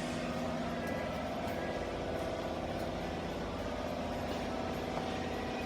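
Double-head aluminium cutting saw running with a steady, even hum, its motor note holding at one pitch throughout.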